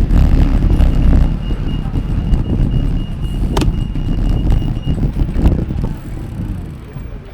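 Road noise while riding a bicycle: a loud, steady low rumble of traffic and wind on the microphone. A faint high whine runs through the first few seconds, and two sharp clicks come in the middle.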